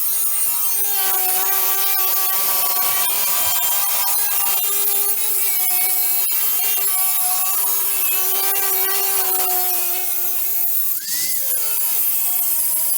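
A power tool working steel: a steady whine whose pitch sags and recovers under load, over fine crackle and hiss. About eleven seconds in, the pitch briefly swoops up and back down.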